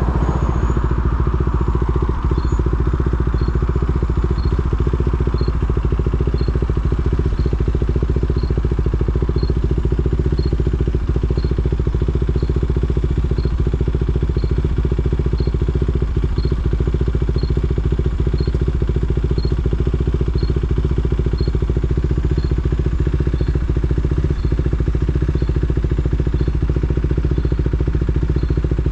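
KTM Duke 390's single-cylinder engine idling steadily. A faint high tick repeats about once a second from about two seconds in.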